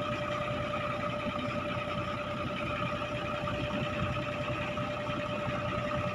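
Fishing boat's engine running steadily, with a constant whine over a rough low rumble.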